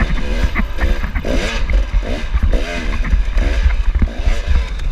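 Dirt bike engines revving in short, repeated blips that rise and fall in pitch as riders go by on the trail, over a heavy low rumble.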